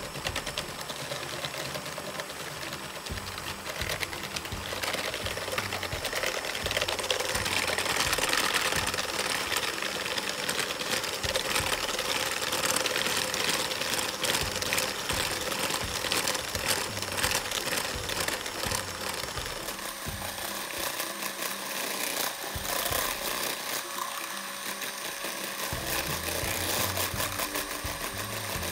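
Electric hand mixer running steadily at speed, its twin beaters whipping instant coffee, sugar and water in a bowl; the mixture is thickening into a stiff dalgona coffee foam.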